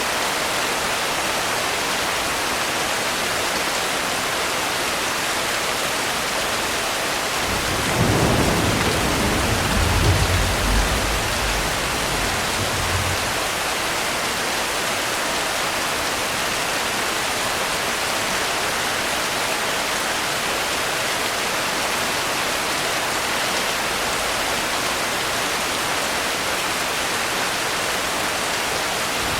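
Steady rain, with a low rumble of thunder rolling in about eight seconds in and dying away some five seconds later.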